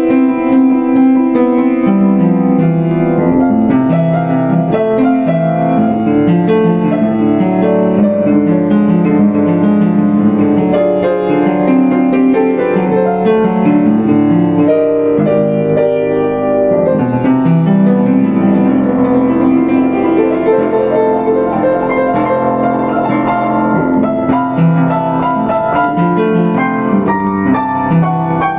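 Solo piano music played on a Yamaha U5 upright piano: a steady stream of notes without pauses.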